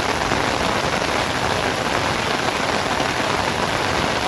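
Rain falling steadily, a loud, even wash of noise with no break.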